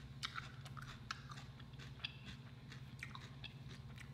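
Quiet chewing of food, a scatter of soft, short mouth clicks, over a steady low hum.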